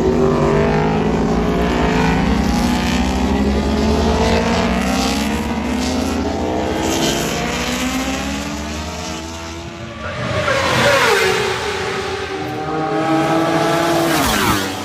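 Superbike racing motorcycle engines at high revs, rising and falling through gear changes, with two bikes passing by and dropping in pitch, the first about ten seconds in and the second near the end.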